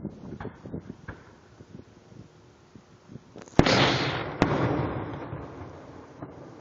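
Fireworks going off. A few small pops come first. Then, about halfway through, a loud bang is followed by a second bang under a second later, and a long rolling echo fades away after them.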